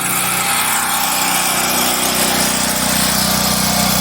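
Small portable gas generator engine running steadily, the load of a washing machine on it.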